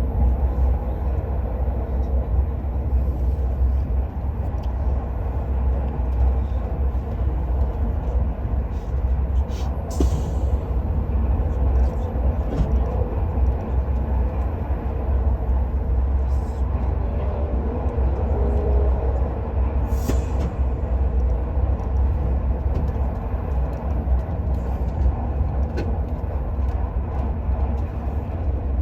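Steady low rumble of an Al Boraq high-speed train running at speed, heard from inside the carriage, with a few light clicks about ten and twenty seconds in.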